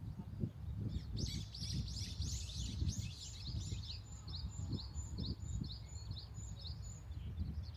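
Small birds chirping: short high calls repeating two or three times a second, with a denser flurry of overlapping calls between about one and four seconds in, over a steady low rumble.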